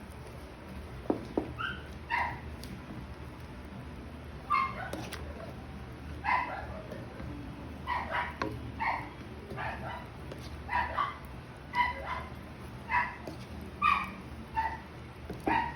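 An animal's short, high-pitched calls repeated irregularly, about one a second, over a steady low hum, with a couple of light knocks near the start.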